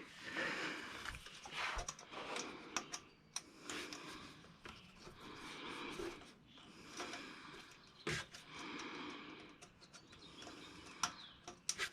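Soft puffs of breath every second or two, with a few sharp clicks of small parts being handled.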